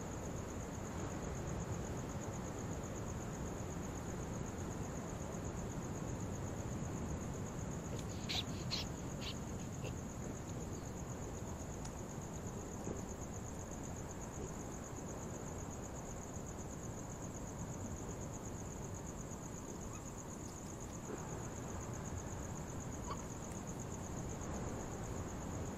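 Crickets trilling steadily in a single high, unbroken tone over a low rural night background hum, with a short run of brief animal calls about eight seconds in.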